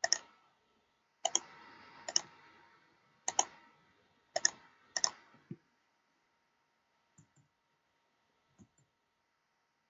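Clicking at a computer while working in a spreadsheet: about eight sharp clicks, several in quick pairs, over the first five and a half seconds, then two faint clicks.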